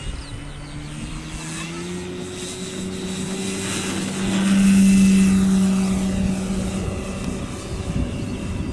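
Electric motor and propeller of a radio-controlled Seagull Grasshopper model plane in flight, a steady hum that rises in pitch over the first couple of seconds, swells to its loudest as the plane passes about five seconds in, then fades.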